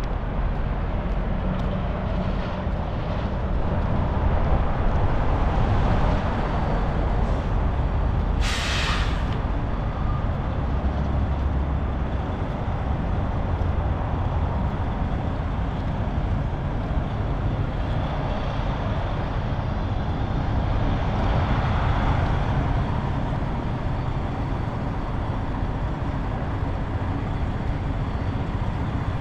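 Heavy diesel truck engine running with a steady low rumble, and one short hiss of an air brake release about eight or nine seconds in.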